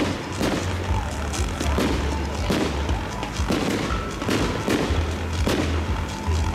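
A fireworks battery firing shot after shot into the air, about two sharp bangs a second, over background music with heavy bass.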